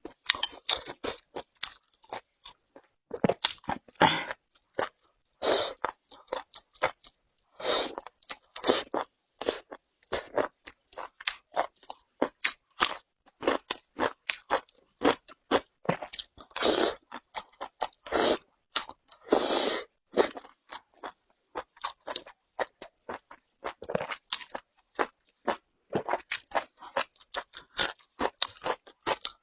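Chewing of crunchy beef tripe (maodu): wet, crisp crunches and mouth clicks coming in quick, irregular bunches with short pauses between.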